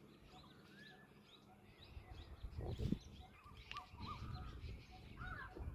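Small birds chirping and calling repeatedly, short high notes and arching whistles, over a low rumble that swells briefly about three seconds in and again at the end.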